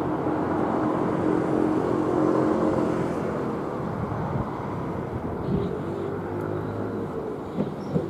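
Southern Class 377 Electrostar electric train moving slowly on the approach to Victoria, a steady hum and rumble that is loudest about two seconds in and then eases, with a few clicks near the end.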